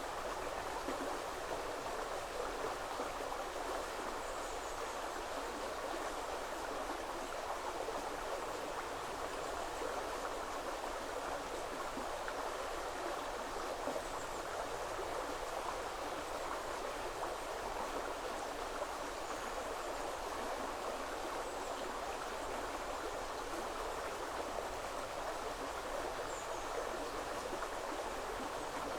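Woodland river flowing steadily over stones. A few faint, short, high bird calls come through every few seconds.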